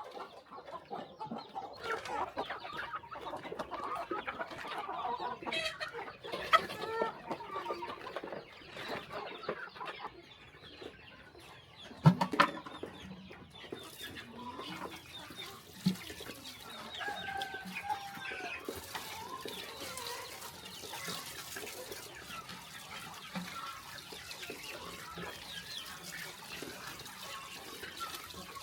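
A flock of chickens clucking and calling over one another, many short calls overlapping throughout. A sharp knock stands out a little under halfway through, with a smaller one a few seconds later.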